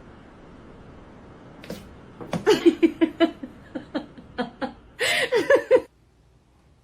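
A person laughing in a run of short rhythmic bursts starting about two seconds in, ending in a louder burst that cuts off suddenly.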